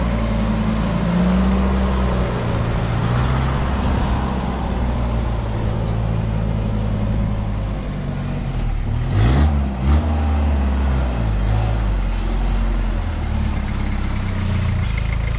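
Toyota Hilux LN106 turbo diesel engine running at low revs, revved up and back down about nine seconds in.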